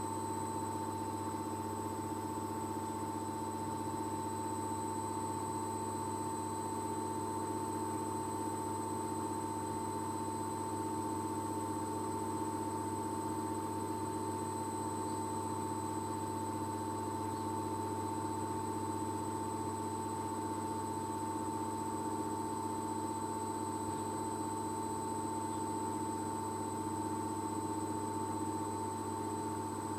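Arçelik washing machine spinning its drum at a steady high speed: an even motor whine over a low hum, with no change in pitch.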